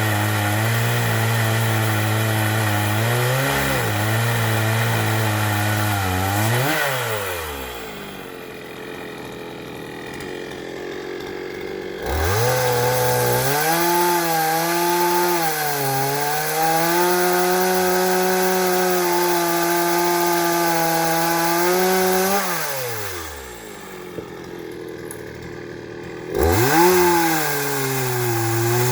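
Chainsaw cutting firewood, running at full throttle in three spells: the first ends about seven seconds in, a longer one runs from about twelve to twenty-two seconds in with a brief dip in pitch partway through, and a short burst comes near the end. Each spell falls back to a lower, quieter idle.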